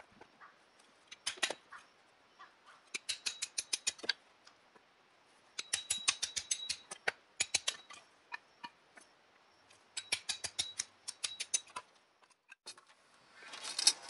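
Runs of rapid sharp clicks, about ten a second, in bursts of one to two seconds with short pauses between.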